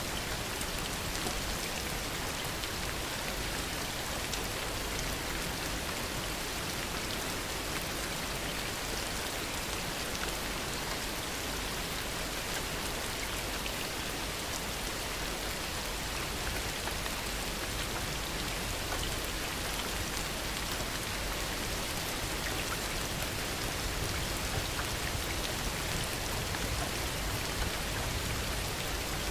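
Steady heavy rain with dense, fine drop patter, an even unbroken hiss.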